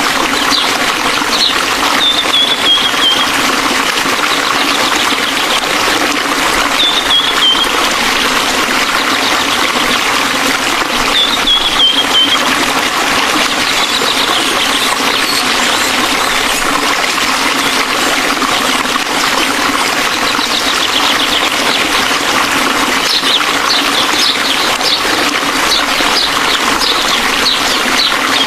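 Waterfall rushing, a loud steady roar of falling water. Brief high falling chirps sound three times in the first half, with quicker high ticks near the end.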